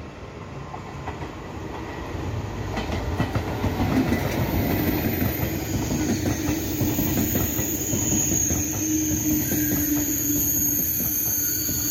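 TGV Duplex double-deck high-speed trainset approaching and rolling past, its running noise growing over the first few seconds. The double-deck cars then pass with wheels clacking over the rails, and a high-pitched wheel squeal joins in the second half.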